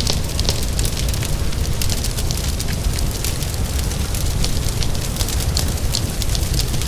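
Wood fire crackling with frequent sharp pops and snaps over a steady low rumble, mixed with rain noise.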